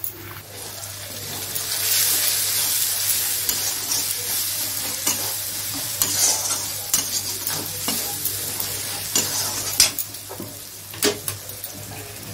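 Onion-tomato masala sizzling in hot oil in a metal kadai while a metal spatula stirs in the ground spices. The sizzle swells about a second in. Through the second half the spatula scrapes and clicks against the pan.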